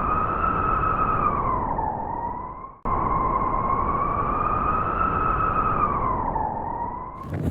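Wolf howling: a long, wavering call that rises a little and then sinks, heard twice in a row over a steady rush of wind.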